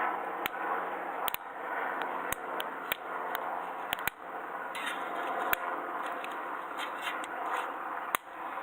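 Wood fire burning in a campfire grill, crackling and popping with irregular sharp snaps over a steady hiss.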